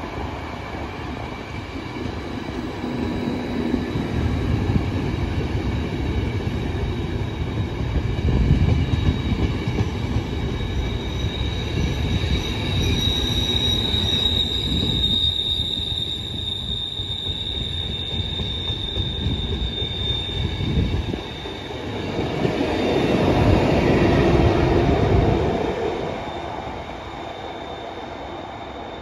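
Intercity passenger train of coaches hauled by an electric locomotive rolling along the track, its wheels rumbling over the rails. A high steady wheel squeal rises over the rumble about halfway through, and a louder rumble swells near the end before the sound fades.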